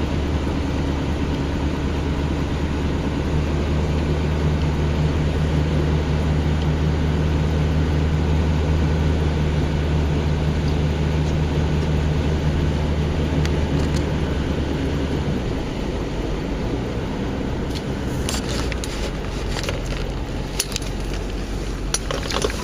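Vehicle engine running steadily while driving through floodwater, with a broad wash of noise over the engine hum. The engine hum drops off about fifteen seconds in, and several sharp clicks or knocks come near the end.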